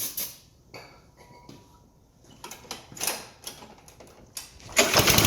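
Brief hisses and clatters of handling, then near the end the Troy-Bilt TB330's 190cc Briggs & Stratton engine fires and runs loudly on starting fluid. It runs on the fluid but not on its own fuel: a fuel-delivery fault, which the mechanic puts down to the carburetor.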